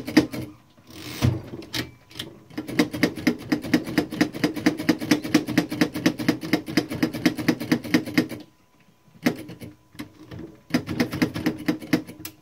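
1912 Mercedes No. 3 typewriter's keys struck over and over in quick runs, the typebars clacking about five or six times a second, with short pauses between runs. The keys are being worked in so that the newly fitted typebars stop sticking.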